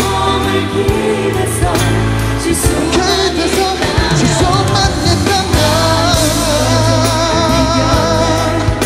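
Korean pop song playing: a singing voice with a wavering melody over steady bass and backing instruments.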